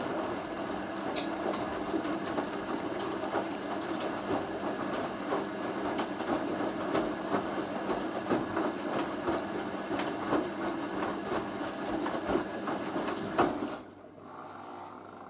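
Hoover A3060 Electronic 1100 washing machine turning its drum during a rinse, its motor running with a steady hum and many small clicks and knocks from the tumbling load. The drum stops suddenly near the end, leaving a quieter background sound.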